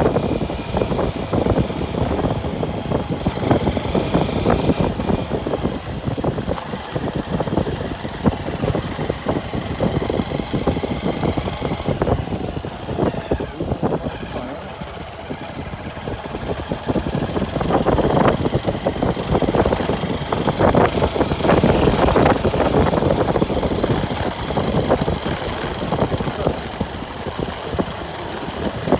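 Motorcycle engine running while riding along, its drone rising and falling, quieter briefly near the middle and louder for a stretch after.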